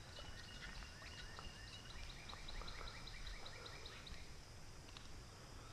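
Songbirds singing, one with a quick run of short repeated chirps at about five a second that stops about four seconds in, over a steady low rumble.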